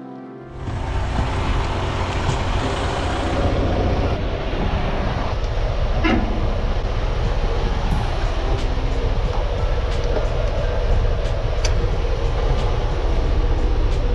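Semi truck on the move: a steady low engine and road rumble with a few short clicks and rattles.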